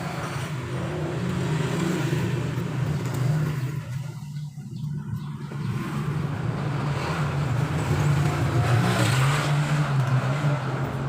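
A truck engine running steadily. It dips briefly about four seconds in, then grows louder about eight seconds in.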